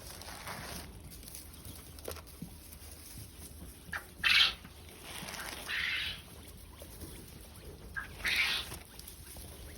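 Quail calling three times, two of the calls a short note followed by a louder harsh burst; the loudest is a little before the middle.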